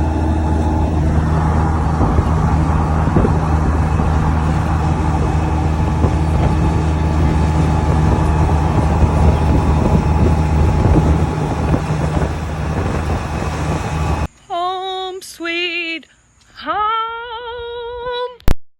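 Polaris Slingshot driving, a steady low engine drone and road rumble. About 14 seconds in, this cuts off abruptly to a short sung melody of a few wavering phrases. A sharp click follows near the end.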